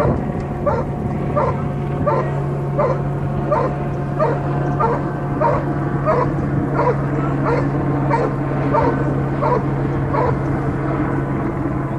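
A dog barking over and over at an even pace, about three barks every two seconds, with a steady low hum underneath.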